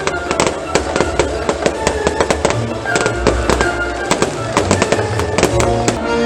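Fireworks going off in quick succession, a dense run of sharp bangs and cracks several times a second, over loud show music with sustained tones.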